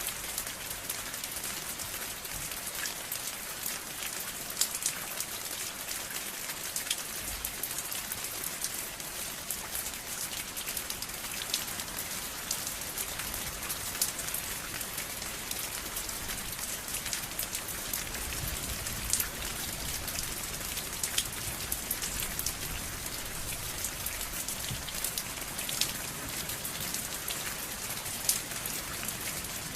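Steady rain: a constant hiss with scattered louder drops hitting a surface here and there.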